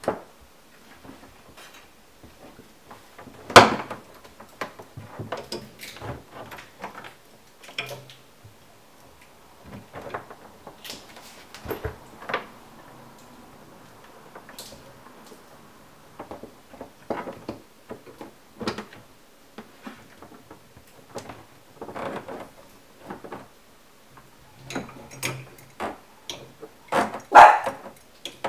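Scattered knocks, clicks and clatter of handling parts and tools, with one sharp knock a few seconds in and a dog barking once near the end.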